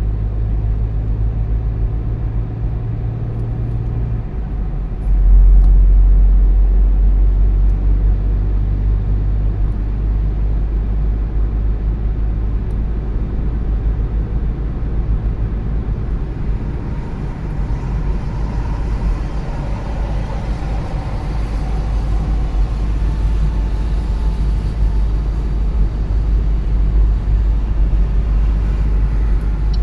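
Car driving along a road: steady low engine and tyre rumble, which steps up in loudness about five seconds in.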